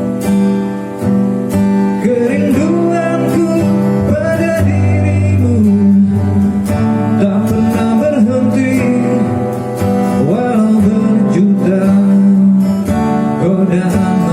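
Acoustic guitar strummed in sustained chords, with a voice singing a slow, gliding melody over it.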